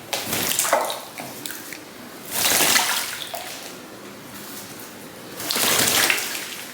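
A pigeon bathing in a shallow tub of water, splashing with its wings in three bursts: near the start, about two and a half seconds in, and about six seconds in.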